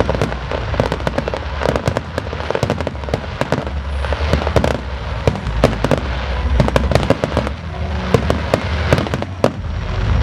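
Fireworks display: a dense, continuous run of sharp cracks and pops from many shells bursting at once, over a low rumble of booms.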